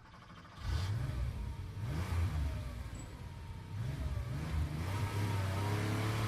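A car engine revving, its pitch rising and falling a few times before it settles into a steady note near the end. It gets suddenly louder a little under a second in.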